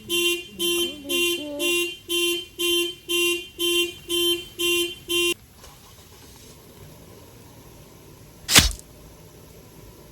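Electronic alarm beeping at one steady pitch, about two and a half beeps a second, then stopping suddenly about five seconds in. A single sharp click follows near the end.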